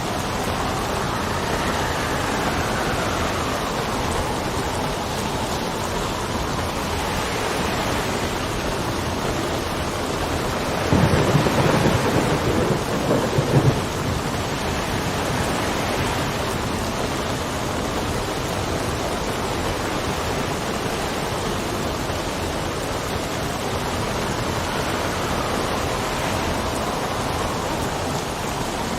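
Steady heavy rain with wind gusting, its whistle rising and falling, and a clap of thunder rumbling for about three seconds roughly a third of the way in.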